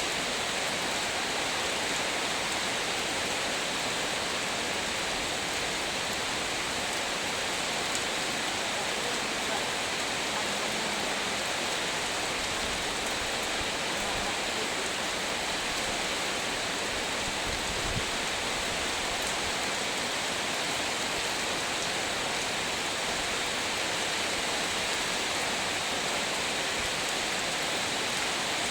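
Heavy rain falling in a steady, dense hiss, with faint scattered drop ticks and a single dull low thump about two-thirds of the way through.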